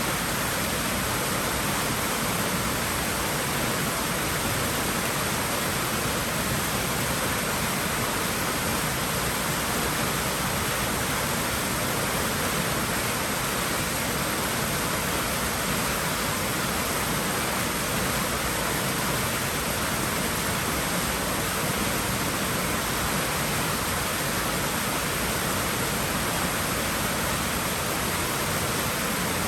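Steady, even rush of moving water in a swimming pool.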